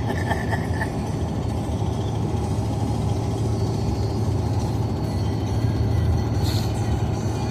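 Steady road and engine noise inside a moving car, an even low rumble.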